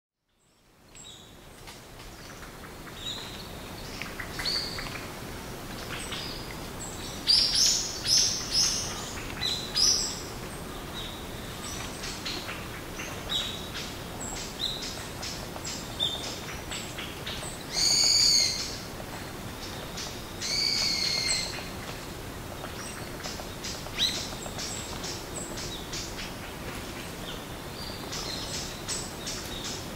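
Woodland birds calling: many short, high chirps from several birds, with a run of loud calls about seven to ten seconds in and two longer, harsher calls near eighteen and twenty-one seconds, over a steady faint hiss. The sound fades in at the start.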